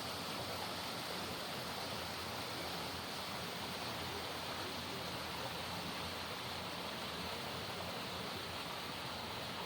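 Steady, even rushing noise without any distinct events, its hiss strongest in the upper-middle range.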